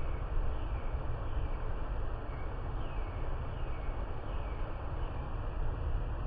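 Steady rain falling, an even hiss, with a few faint high chirps that fall in pitch during the first few seconds.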